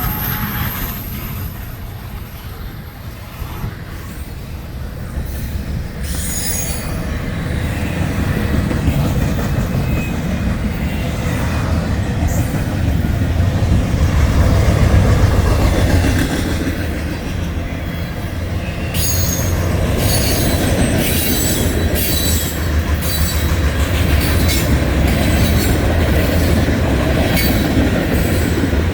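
Norfolk Southern mixed manifest freight train rolling past, its cars giving a steady heavy rumble with wheel squeal. Past the middle, regular sharp clacks of wheels over rail joints come about once a second.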